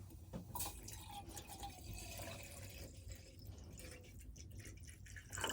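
Water pouring or dripping into a container, with a faint tone sliding slowly downward over a few seconds and a sharp knock near the end.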